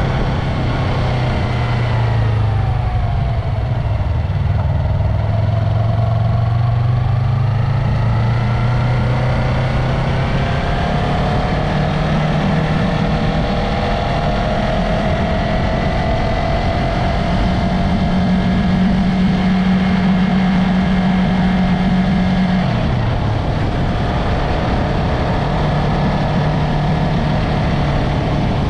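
Yamaha MT-03 motorcycle engine and exhaust on the move, its note falling as it slows a few seconds in, then climbing and settling as it picks up speed, with a short dip in pitch about 23 seconds in.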